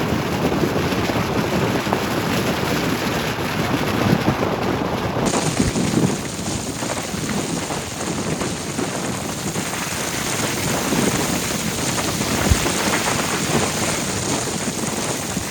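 Steady rumbling noise of wind buffeting the microphone, changing abruptly about five seconds in at a cut.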